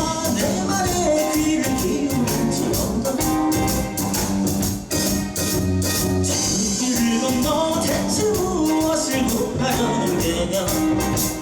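Rock band playing live: electric guitars, bass and drum kit, with a gliding melodic line over a steady drum beat.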